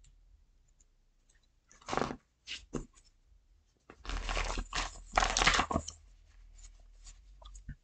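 Tarot cards being handled and shuffled: a few short rustling, papery bursts, the longest two between about four and six seconds in, then faint rustles.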